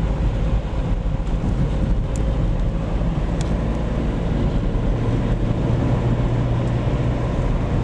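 Car driving at steady speed: a continuous low engine and road rumble, with two brief faint ticks.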